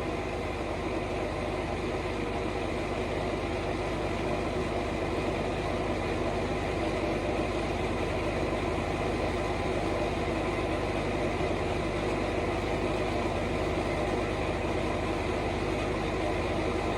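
A vehicle engine idling steadily, an even hum that does not change.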